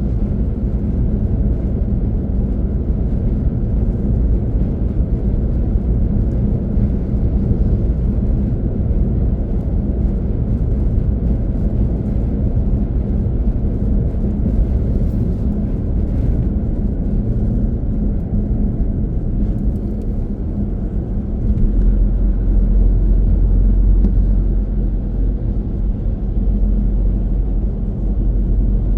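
Car driving along, a steady low road and engine rumble that grows louder for several seconds in the latter part.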